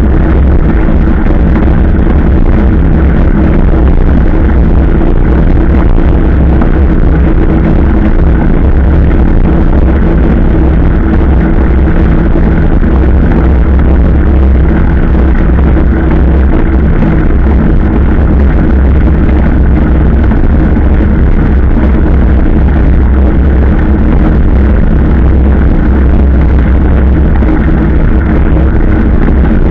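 Motorcycle engine running steadily at constant cruising speed, loud and unbroken, with rushing noise over it.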